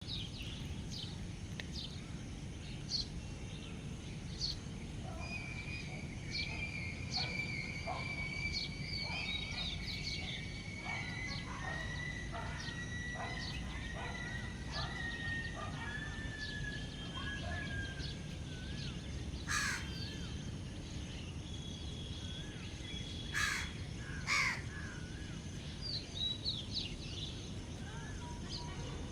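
Wild birds calling: many short chirps and whistles, with a long, slowly falling whistled note, and three loud, harsh calls about two-thirds of the way through, over a steady low background rumble.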